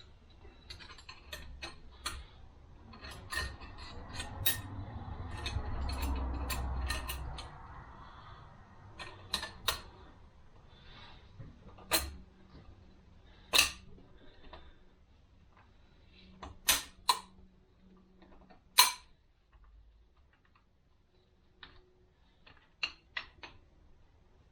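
Parts of a 42RE automatic transmission being handled on a workbench: scattered light metallic clicks and clinks, a low rumble of something being slid or turned in the first third, then a few sharp clicks, the loudest about three quarters of the way in.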